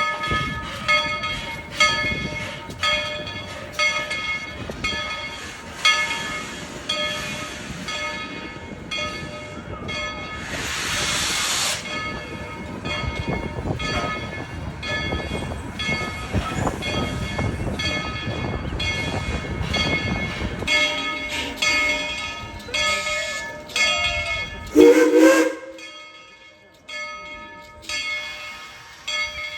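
Bell of narrow-gauge steam locomotive No. 190 ringing steadily, about one stroke a second. About ten seconds in there is a loud burst of hissing steam, and near the end a brief louder sound.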